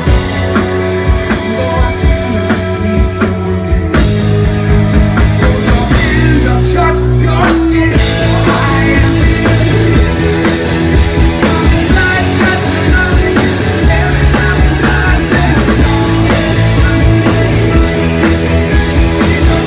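Live rock band playing a song: guitars, bass and drums with singing. The top end thins out about four seconds in and the full band comes back around eight seconds in.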